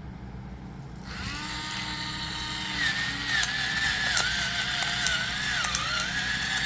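Small battery-powered electric pepper grinder motor whirring, starting about a second in and rising in pitch a little later. The pitch wavers under load, with scattered crackling clicks as it grinds.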